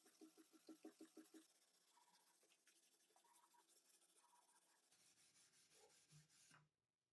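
Faint quick rubbing strokes of hand work on a part, about six or seven a second for the first second and a half. Fainter scraping follows, and the sound cuts off shortly before the end.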